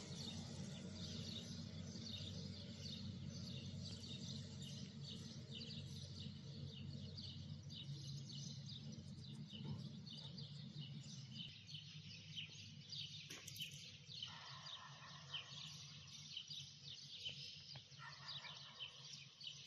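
Faint chorus of small birds chirping rapidly and continuously, over a steady low background rumble.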